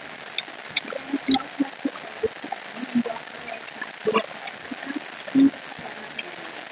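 Close-miked chewing and mouth noises of someone eating a crispy fried fish fillet, with irregular small clicks and smacks and two louder mouthfuls about four and five and a half seconds in.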